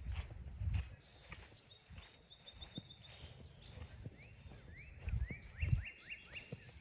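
Footsteps on a forest trail, loudest near the start and again about five seconds in, while songbirds sing: a quick run of high repeated notes about two seconds in, then a series of rising whistled notes near the end.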